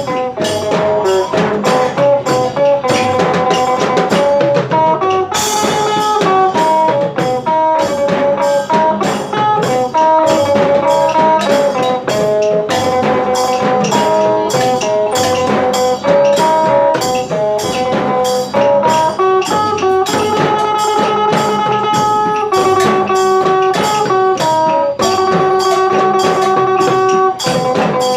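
Isan phin, the northeastern Thai plucked lute, playing a lively melody over a steady drum-kit beat, with cymbals joining about five seconds in.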